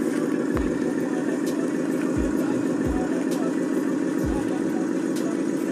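Truck diesel engine sound running steadily at a low idle-like pace, with a deep thump about every second.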